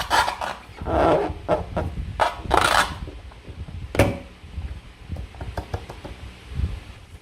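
Slime being squished and worked by hand with a rubber balloon: sticky squelches, crackles and clicks, with one sharp snap about four seconds in, then softer crackling.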